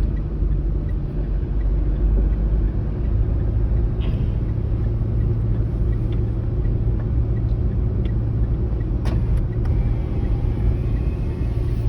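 Car engine and road rumble heard from inside the cabin of a manual car being driven, a steady low drone that strengthens about three seconds in. A single click about nine seconds in.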